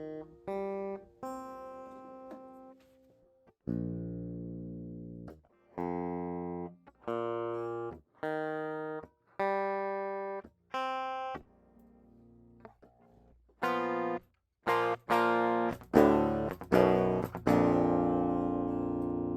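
Solar 27-inch baritone electric guitar played after a full setup: single notes picked one at a time, each left to ring for about a second, then louder strummed chords from about two-thirds of the way in, the last one ringing out.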